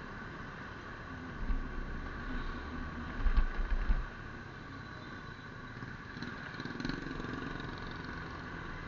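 Steady engine and road noise of a vehicle travelling through town traffic, with loud low rumbles about one and a half seconds in and again around three to four seconds in.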